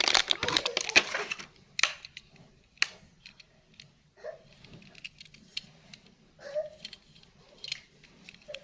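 Handling noise: dense crinkling and clattering for about the first second and a half, then scattered light clicks and taps, with a couple of brief voice sounds in between.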